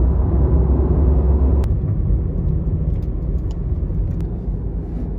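Low, steady rumble of a vehicle in motion, heavier for the first second and a half. It eases after a single sharp click.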